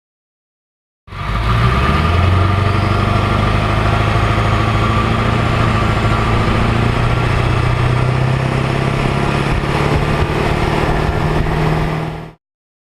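Exhaust note of a Ford 7.3L Powerstroke turbo-diesel V8, running steadily with its pitch creeping slightly upward. It starts abruptly about a second in and cuts off suddenly near the end.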